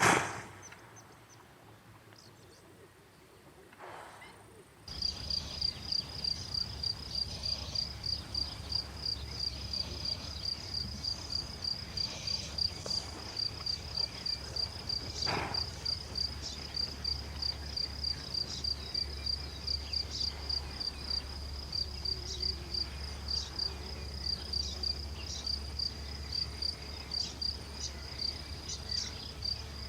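An insect chirping: a high, even note pulsed a few times a second, starting suddenly about five seconds in, over a low steady hum.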